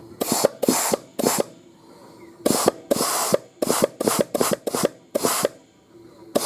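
Compressed-air blow gun firing about ten short hissing blasts in quick runs on transmission parts, with a pause of about a second partway through.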